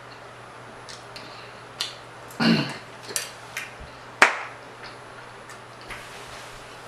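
Mouth sounds of someone eating chitterlings: a scattering of short, sharp, wet clicks and smacks while chewing, with a louder smack about halfway through and a sharp click just after it.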